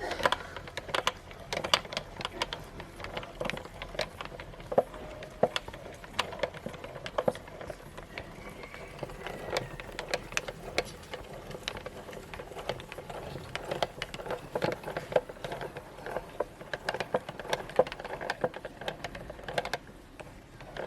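Meat grinder working caramel cake through its auger: a dense, irregular run of clicks and crackles over a steady mechanical churn.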